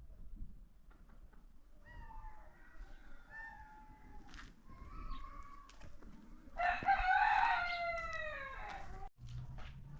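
Chickens calling, softer calls for a few seconds, then a rooster crowing once, loudly, for about two and a half seconds, its pitch falling toward the end.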